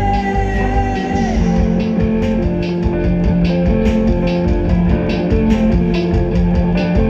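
Live rock band playing: a held note slides down about a second in, then drums, bass and electric guitar carry on in a steady beat without vocals.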